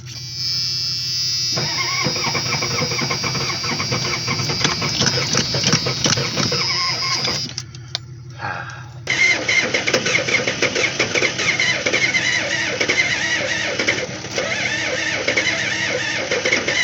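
Starter cranking the 6.9 IDI V8 diesel in two long tries, the first about seven seconds, then a short break and a second one; the engine turns over without running. The engine is being cranked on ether because the glow plugs probably aren't working.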